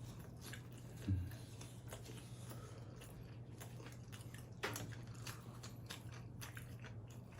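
Close-miked chewing of pizza: a run of small wet mouth clicks and crunches from biting and chewing. About a second in there is a short, low hummed "mm", and a sharper smack comes just before the five-second mark.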